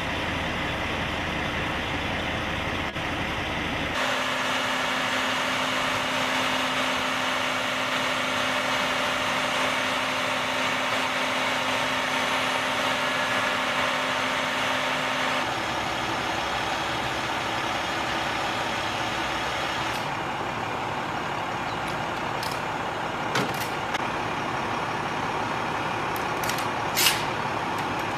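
Heavy machinery running steadily, the engine noise changing abruptly about four, fifteen and twenty seconds in as separate clips are spliced together. Two sharp clicks sound near the end.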